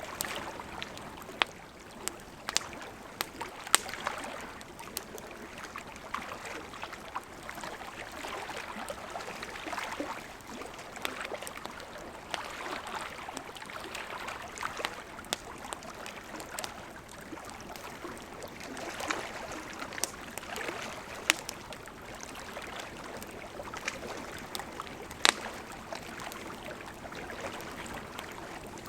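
Wood campfire crackling, with sharp irregular pops (the loudest about four seconds in and near the end), over a steady wash of gently lapping lake water.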